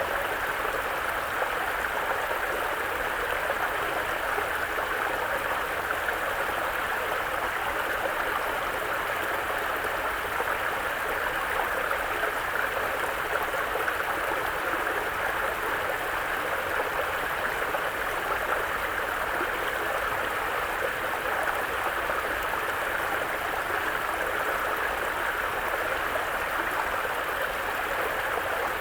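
Mountain brook flowing over rocks: a steady, even rush and babble of water that holds unchanged throughout.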